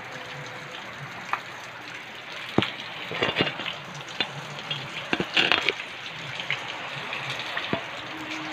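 Heavy rain falling steadily with an even hiss, with irregular sharp taps of drops striking close surfaces, louder around the middle.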